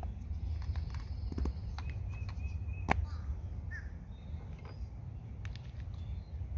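Steady low rumble with scattered light clicks and taps, the sharpest about three seconds in.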